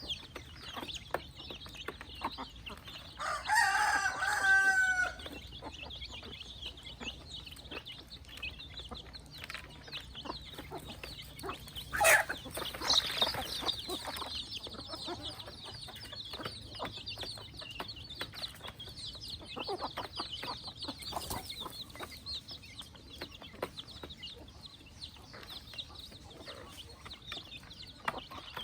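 Free-range chickens clucking, with a rooster crowing once, loudly, about three seconds in. A sharp knock sounds near the middle, over a steady high hiss.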